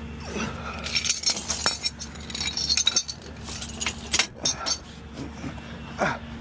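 Light metallic clinking and jangling, a run of quick sharp clinks over a few seconds, over a steady low engine hum.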